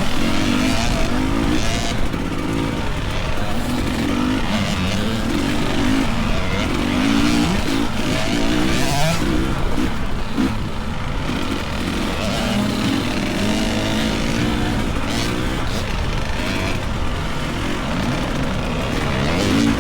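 Dirt bike engine running as the bike is ridden along a trail, its pitch rising and falling repeatedly with the throttle, over a steady low rush of wind and rumble.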